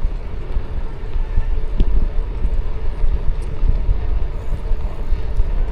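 Steady low rumble of wind buffeting the microphone on a moving e-bike, with the ride's rolling noise underneath.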